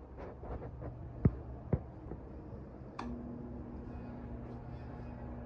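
Union UGTF-18SF 18-inch stand fan: a few light clicks and two sharper clicks, then a click about three seconds in as the motor switches on and starts a steady low hum.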